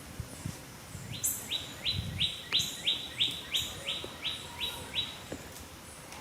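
A bird calling a rapid series of about a dozen sharp, repeated notes, about three a second, that stops about five seconds in.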